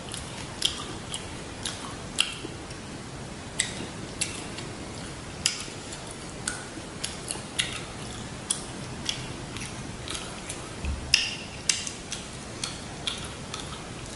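Close-miked chewing of a shrimp and pork rice-paper roll: sharp, wet mouth clicks and lip smacks at an irregular one or two a second, with a louder cluster about eleven seconds in.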